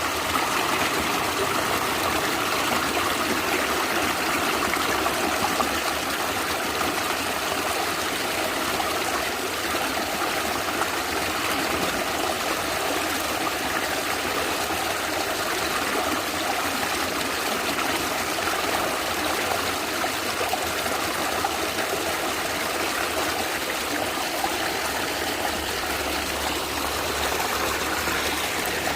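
A natural stream gurgling and trickling over stones, a steady, even flow with no change in level.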